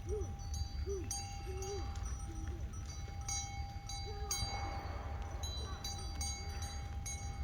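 A small metal bell, as worn by grazing sheep, clinking irregularly about every second, each strike ringing on briefly, over a low steady rumble. Short low calls come now and then.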